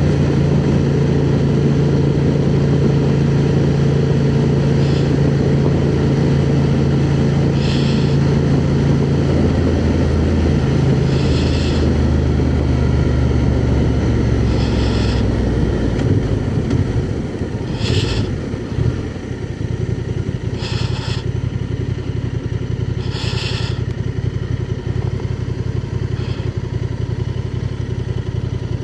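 Honda Transalp 750's parallel-twin engine running steadily under way over wind noise, heard from inside the rider's helmet. About two-thirds of the way through, the engine note drops away and the sound gets quieter as the bike eases off.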